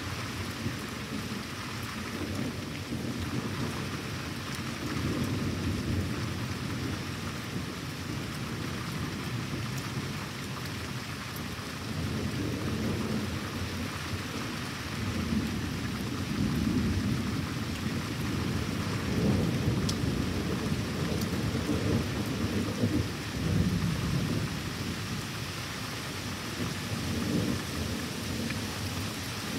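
Thunderstorm: steady rain falling, with rolling thunder that rumbles low and swells several times.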